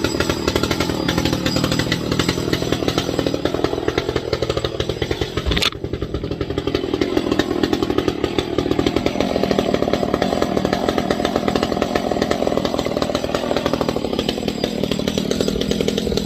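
Ported Echo CS-670 two-stroke chainsaw running with no bar or chain fitted, its engine speed rising and falling as the throttle is worked. A single sharp snap cuts through about six seconds in.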